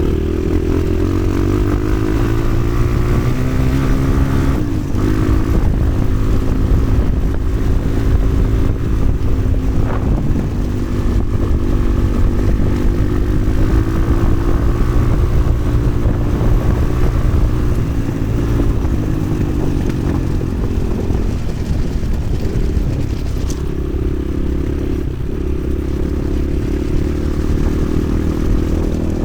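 Motoland XR 300 Lite enduro motorcycle engine running on the move, its pitch rising and falling as the throttle is opened and eased.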